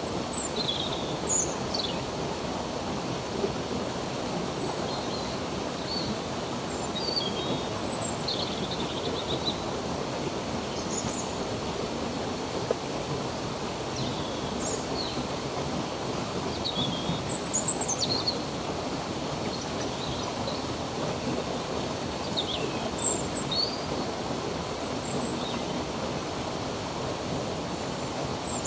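Steady rush of a flowing stream or creek, with birds chirping briefly and repeatedly over it.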